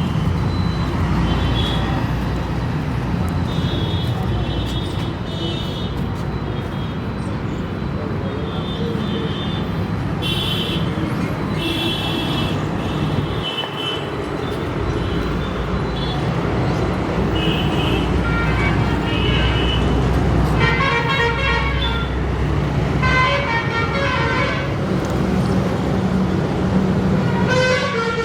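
Road traffic: a steady vehicle engine rumble with repeated horn toots, short high beeps through the first half and longer honks a little past the middle and near the end.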